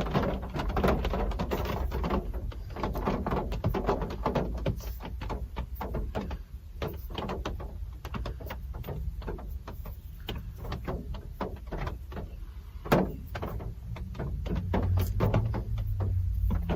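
Real rain falling, heard as a close, irregular patter of drips and soft taps, with one sharper click about thirteen seconds in.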